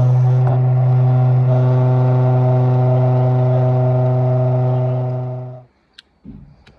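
Electric lawnmower motor running with a steady hum, then cutting out abruptly about five and a half seconds in, followed by a couple of faint knocks. The mower is stopping on its own, a fault that the owner thinks may be the fuse rather than the plug.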